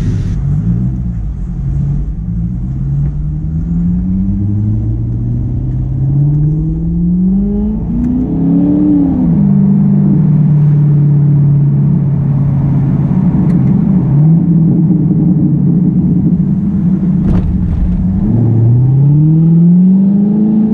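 Car engine heard from inside the cabin, accelerating through the gears: its note climbs in pitch several times with a drop at each shift, holds steady while cruising, drops, then climbs again near the end.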